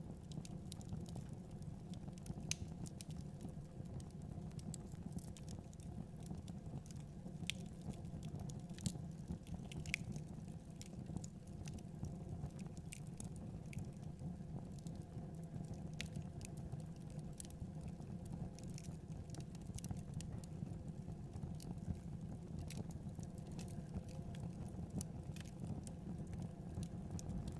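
Wood fire burning in a fireplace: irregular small crackles and pops over a steady low rumble of the flames.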